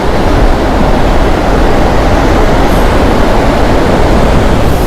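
Steady roar of ocean surf, with wind buffeting the microphone.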